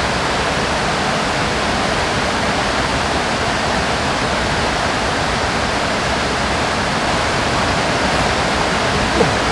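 Mountain river rushing close by: a steady, loud rush of water.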